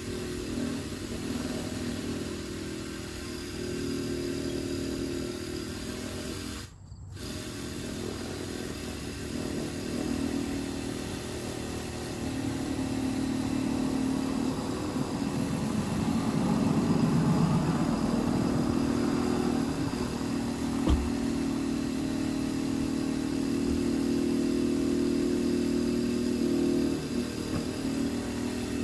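An engine running steadily, its level rising and falling a little, with one sharp knock about two-thirds of the way through.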